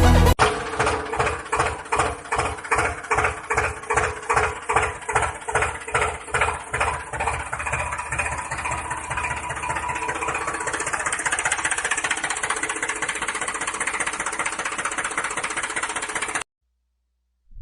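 Small engine-like motor of a homemade miniature tractor running with a regular chug, about two to three beats a second, that evens out into a steady hum about halfway through. It cuts off suddenly about a second before the end.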